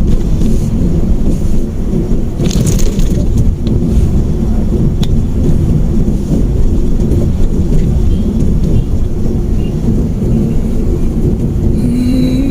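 Steady low rumble of a moving car heard from inside the cabin, the road and engine noise of a Mitsubishi Mirage hatchback, with a brief hiss about two and a half seconds in.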